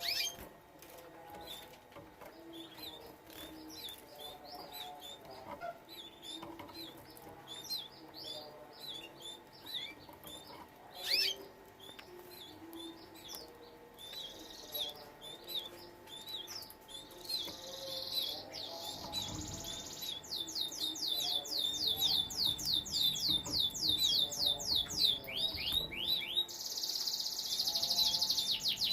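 Canaries chirping: scattered short high calls at first, then about two-thirds of the way in a canary breaks into song, with fast rolling trills of quick repeated notes and harsh buzzy stretches between them, growing louder toward the end.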